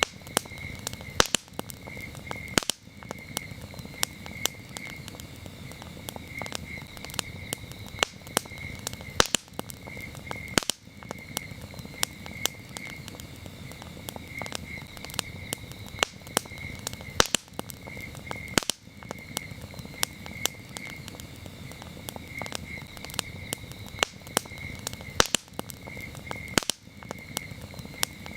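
Campfire burning, with frequent sharp crackles and pops over a low steady rumble. Crickets chirp in short pulsed trills throughout.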